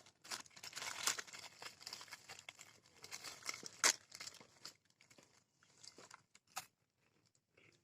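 Plastic biscuit packet crinkling as it is handled and opened, a dense crackle that thins out about two-thirds of the way through into a few scattered clicks.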